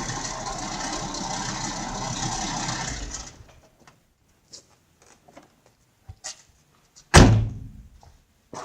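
A VW T4's 2.5 TDI five-cylinder diesel engine running steadily, then going quiet about three seconds in. A few faint clicks follow, then a single loud door slam about seven seconds in.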